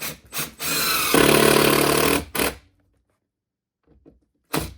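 Power drill running in two short blips, then a steady run of about a second and a half, then one more short blip; another brief blip near the end.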